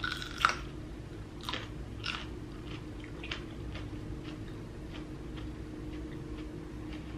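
Crunchy bite into a raw green pepper, followed by chewing, the crunches getting fainter and more spaced out. A faint steady hum sits underneath.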